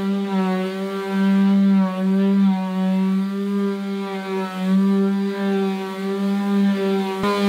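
Electric sander running steadily against varnished wood panelling, a constant motor hum with a slight waver in pitch. A brief click near the end, after which it carries on.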